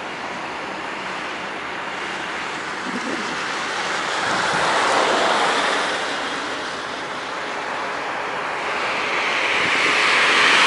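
Outdoor rushing noise, even and without a clear pitch, that swells about five seconds in, fades, then builds again near the end.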